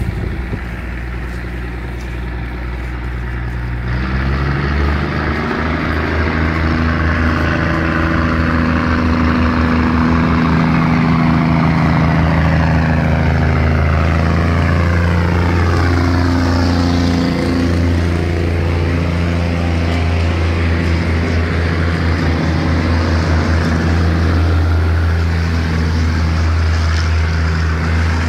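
Diesel railcar train pulling out of a station, its diesel engines running under load as the carriages roll past. The engine note grows louder about four seconds in and then stays steady.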